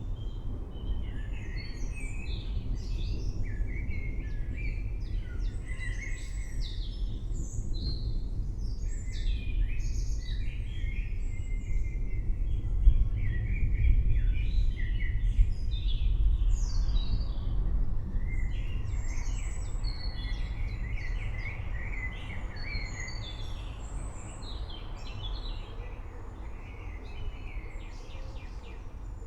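Many birds chirping and calling at once over a steady deep rumble, which swells louder around the middle.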